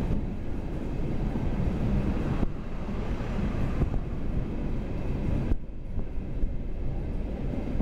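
Running noise of a passenger train heard from inside the carriage: a steady low rumble of wheels on the track. The higher part of the noise drops away abruptly twice, about two and a half and five and a half seconds in.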